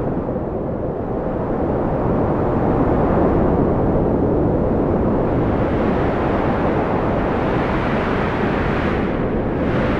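Strong wind blowing in a steady low rush that swells gently after the first couple of seconds.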